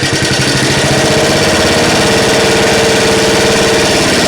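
Snapper riding mower's small engine running steadily just after starting, with rapid, even firing pulses. It is loud.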